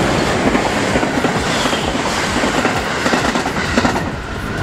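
Electric multiple-unit train, JR West 223 series coupled with JR Shikoku 5000 series cars, running past at close range with a dense, quick clatter of wheels over the rails. The sound falls off near the end as the last car goes by.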